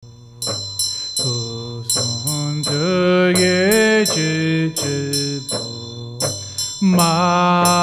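Music for a Tibetan mantra chant: a low voice chanting over regular percussion strikes, about two to three a second, with a high bell-like tone ringing from about half a second in.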